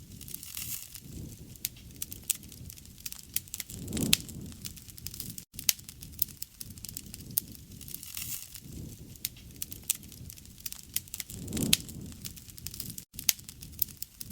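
Wood fire crackling, with many sharp pops and snaps over a low rushing sound that swells twice, about four seconds in and near the end. The sound cuts out for an instant twice.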